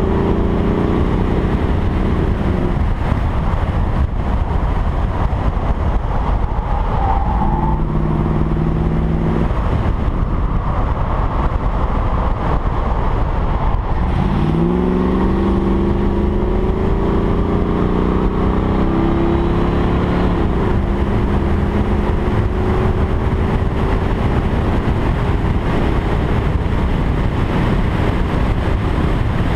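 1986 Pontiac Firebird Formula's 5.0-litre TBI V8 driven hard around a race circuit, over a steady low rush of wind and road noise. The engine note falls near the start, then climbs steeply about halfway through under acceleration and keeps rising before dropping back.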